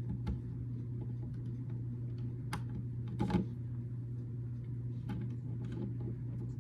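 Small plastic building bricks clicking and tapping as they are handled and snapped together, with a couple of sharper clicks around the middle, over a steady low hum.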